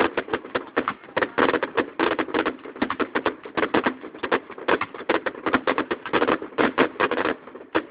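Fireworks bursting overhead in a rapid, irregular run of sharp reports, several a second, with no pause.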